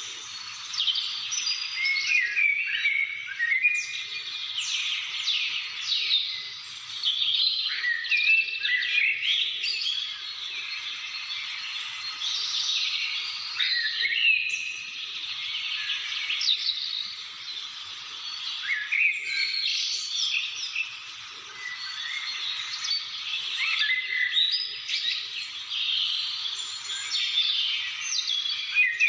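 Many birds chirping and calling at once: a dense, continuous chorus of quick, high chirps and short whistled glides.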